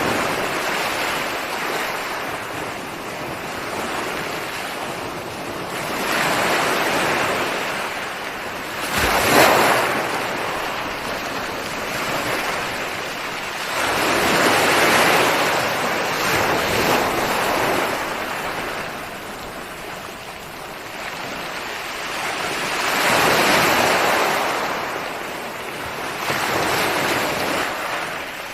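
Ocean waves breaking on a shore, the surf swelling and fading every few seconds with hissing wash between breakers. The sharpest, loudest break comes about nine seconds in.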